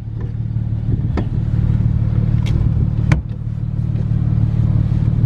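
Nissan 350Z's 3.5-litre V6 running steadily at idle, with a few sharp clicks and knocks about one, two and a half, and three seconds in.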